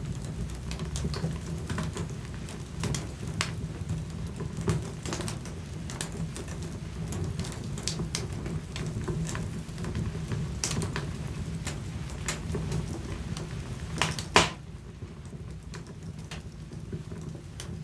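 Wood fire burning in a fireplace, logs crackling with irregular sharp pops over a low steady rumble; one louder snap about 14 seconds in.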